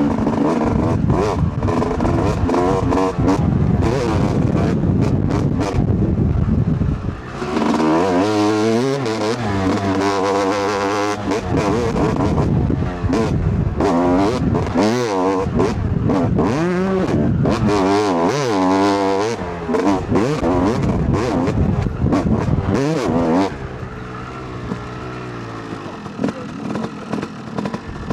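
Two-stroke dirt bike engine, a 2008 Yamaha YZ250, revving hard and repeatedly up and down as it is ridden off-road. Near the end it settles to quieter, lower running.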